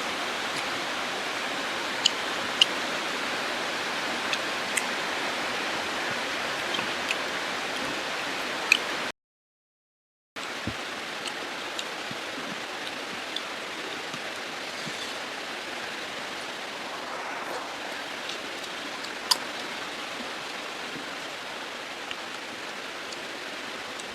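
Steady hiss of heavy rain with scattered sharp clicks. The sound cuts out completely for about a second at around nine seconds in, then returns a little quieter.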